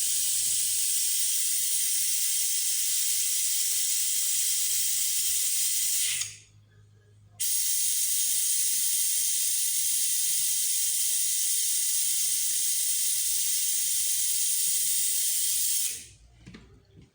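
Pressurised jet hissing steadily in two long bursts: about six seconds, a one-second pause, then about nine seconds more before it cuts off.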